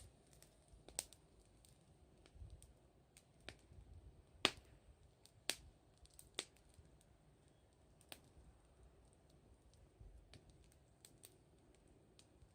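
Wood bonfire crackling: faint, irregular pops and snaps of burning firewood, the loudest a sharp crack about four and a half seconds in.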